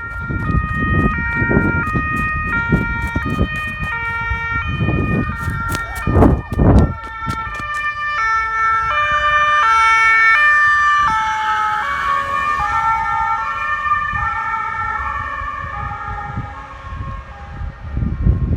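German police two-tone siren (Martinshorn) alternating between a high and a low note, with a second siren pattern overlapping in the middle, the pitch dropping about eleven seconds in. Loud low rumbling comes and goes in the first seven seconds.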